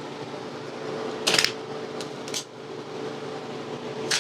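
Metal clamps being loosened and taken off a glued-up chair: a few sharp metallic clinks and clicks, the loudest about a second in, over a steady background hum.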